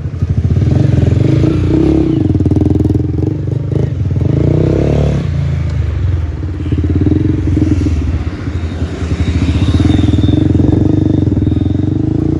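Honda 125 single-cylinder four-stroke motorcycle engine running loud, revving up about four seconds in and easing back about a second later, then holding steady.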